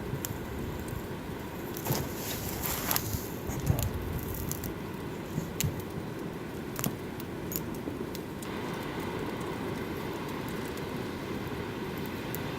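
Campfire crackling, with scattered sharp pops and clicks over a steady rushing noise.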